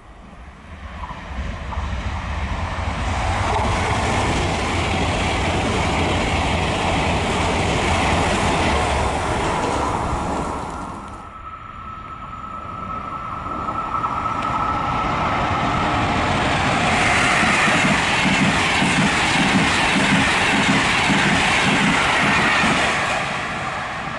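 Two trains passing through at speed, one after the other. First a Frecciarossa 1000 (ETR 400) high-speed electric train rushes by, its sound swelling and then dropping away. After a short lull a second train passes, with a steady clatter of wheels over the rail joints.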